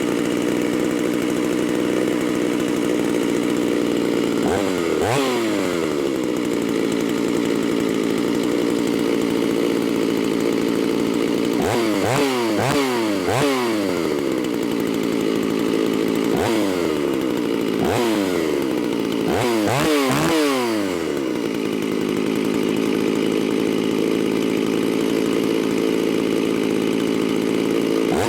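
Ported Shindaiwa 757 two-stroke chainsaw running at idle and revved in short blips about seven times, the engine pitch rising sharply and falling back each time; one blip comes early, then a cluster through the middle.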